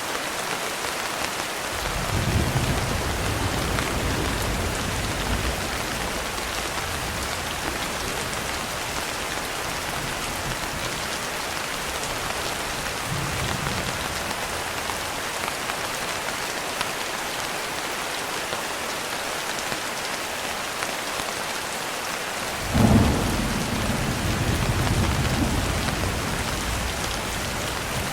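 Steady heavy rain with rolling thunder. A low rumble starts about two seconds in and lasts several seconds, a faint one comes in the middle, and a sharper, louder clap near the end rolls on for a few seconds.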